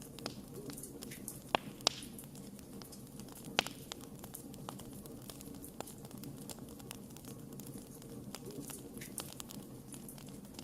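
Wood fire crackling: a steady low rumble of burning with scattered sharp pops and snaps, the loudest three in the first four seconds.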